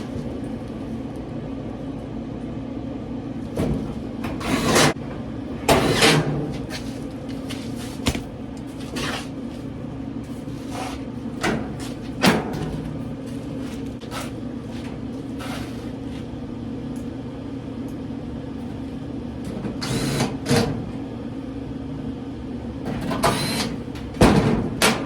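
Sheet-metal dryer cabinet parts and a 5/16 nut driver knocking and clanking as the panels are screwed back on, over a steady low hum. Most of the knocks come in clusters about four to six seconds in, around twenty seconds in, and near the end.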